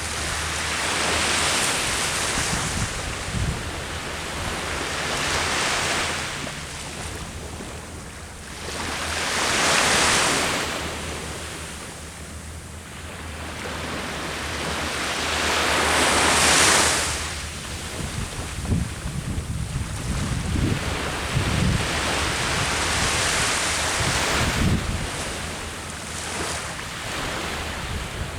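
Ocean surf breaking on the shore, each wave swelling and washing out every few seconds, with wind gusting against the microphone in the second half.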